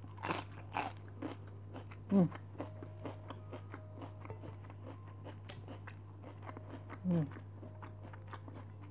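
Two crisp crunches of a bite into a raw cabbage leaf, about half a second apart near the start, then steady close-up chewing with small wet clicks. Twice, about two seconds in and again near seven seconds, a short falling hum from the eater while she chews.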